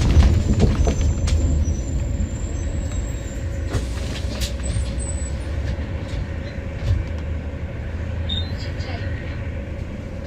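Low rumbling road-vehicle noise that slowly fades, with a few scattered clicks.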